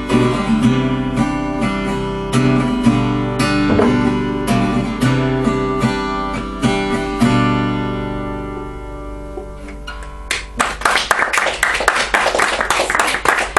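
Acoustic guitar playing the closing chords of a song, the last chord left to ring and fade out; about ten seconds in, an audience breaks into applause.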